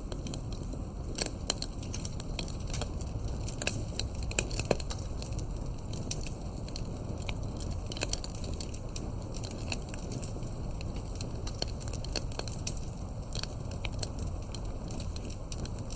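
Wood campfire crackling: frequent sharp pops and snaps of burning wood over a steady low rumble of the flames. A few louder pops come in the first five seconds.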